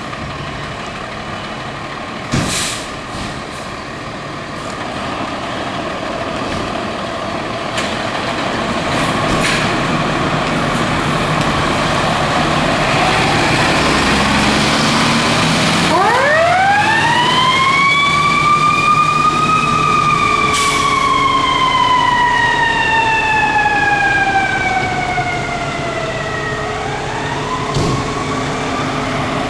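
Fire truck diesel engine rumbling, then, about halfway through, a Federal Signal EQ2B siren winds up fast to a high wail. It slowly coasts down in pitch and winds up again near the end.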